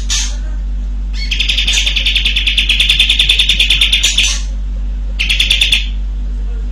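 Sooty-headed bulbul singing its long rattling trill, a rapid run of about ten notes a second that lasts about three seconds, then a shorter rattle about a second later, with brief single calls at the start and end.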